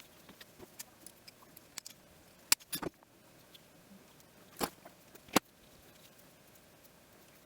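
Small clicks and ticks of hand work with pliers and metal spark plug wire terminals, a few sharper clicks standing out about two and a half, four and a half and five and a half seconds in.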